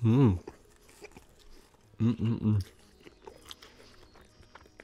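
Close-miked chewing of a mouthful of chicken sandwich: faint wet mouth clicks and soft crunches. Two short bursts of the eater's voice stand out, one at the very start and one about two seconds in.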